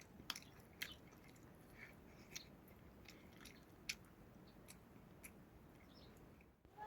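Near silence with faint, scattered short clicks and ticks at irregular intervals, roughly one or two a second.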